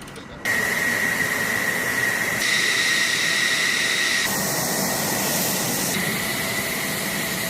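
Jet engine running: a loud hiss with a steady high-pitched whine that starts suddenly about half a second in. Its tone changes abruptly several times.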